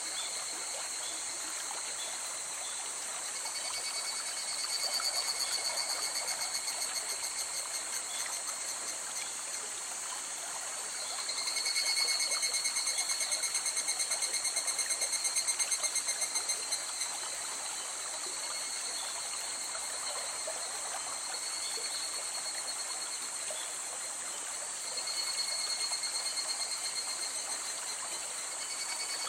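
River water running steadily with a continuous rushing hiss. Insects trill over it in rapid pulses, swelling into three louder bouts: a few seconds in, in the middle, and near the end.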